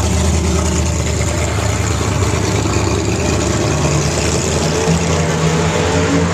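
Loud, steady drag-racing engine noise from race cars running at the strip, enough to drown out talking.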